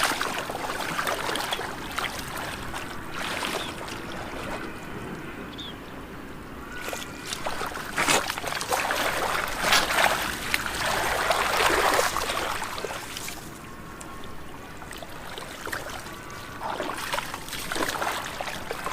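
Shallow muddy floodwater splashing and sloshing as hands and feet work through it. There are scattered knocks, and a louder, busier stretch of splashing in the middle.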